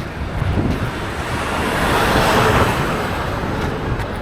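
Wind buffeting the microphone, with a broad rushing noise that swells to a peak about halfway through and then fades.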